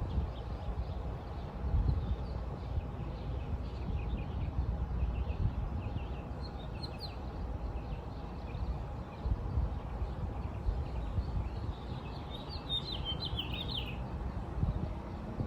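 Small birds chirping, with a louder run of calls falling in pitch near the end, over a steady low rumble.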